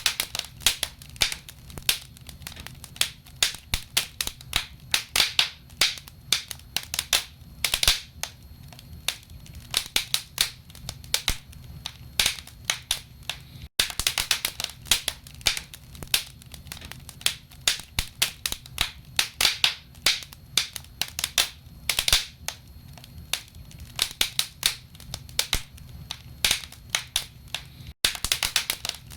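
Wood fire crackling in a fireplace: the burning logs give irregular sharp pops and snaps, several a second, over a faint low rumble.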